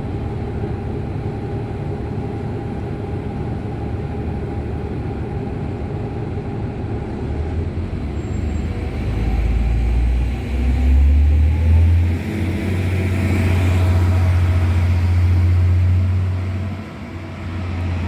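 Trenord ATR 125 and ATR 115 electric multiple units running through the station. A steady rumble grows louder about halfway through into a loud low drone with a faint rising whine, then eases near the end.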